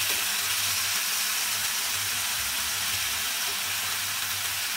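Chicken thighs and Schezwan sauce sizzling steadily in a hot frying pan.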